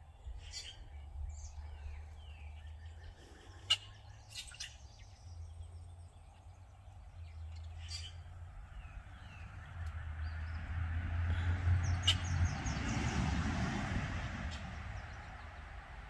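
Wild songbirds giving short scattered chirps, over a low steady rumble. A rushing noise swells up about ten seconds in and fades again over several seconds, the loudest sound here.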